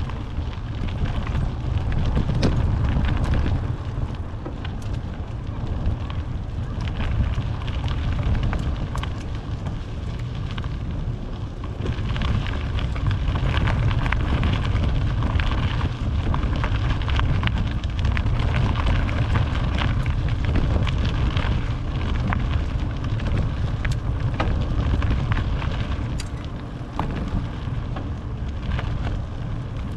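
Wind buffeting a helmet- or bike-mounted action camera's microphone on a moving bicycle: a steady low rumble, with many small crackles from the tyres rolling over the path.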